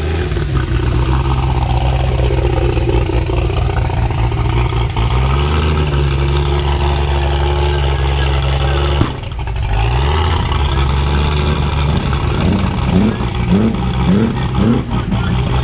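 Turbocharged Chevrolet Opala straight-six drag car running loud at low revs as it rolls, rising briefly in pitch about five seconds in. Near the end come a few short rising revs.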